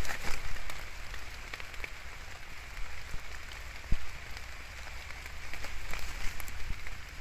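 Heavy rain falling, with many individual drops ticking close by, and a single sharp knock about four seconds in.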